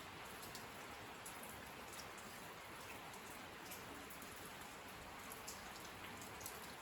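Steady rain: an even hiss of falling rain with scattered sharp ticks of single drops.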